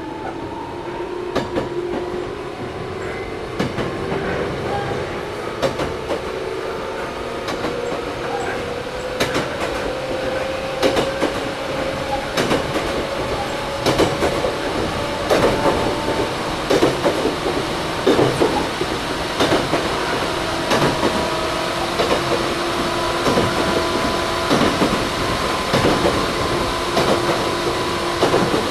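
Onboard running sound of a Toyohashi Railway 1800 series (ex-Tokyu 7200 series) resistance-controlled electric motor car. The traction motor whine rises in pitch as the train gathers speed through the first half, then holds steady. The wheels clack over rail joints, more often toward the end.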